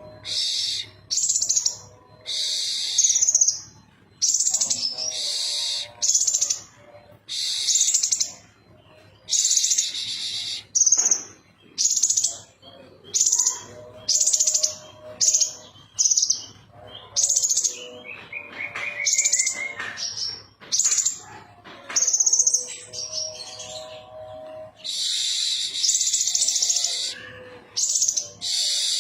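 Kolibri ninja sunbird singing vigorously: rapid, high, chattering phrases from under a second to about two seconds long, repeated over and over with short gaps.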